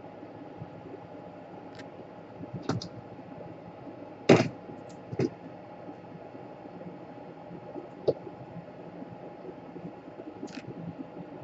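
Scattered sharp clicks and knocks of small laptop parts and tools being handled on a workbench, five in all, the loudest about four seconds in, over a steady low hum.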